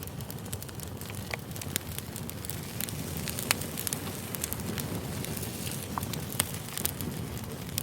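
Campfire crackling: burning wood gives off many sharp, irregular pops and snaps over a steady low rush of flame.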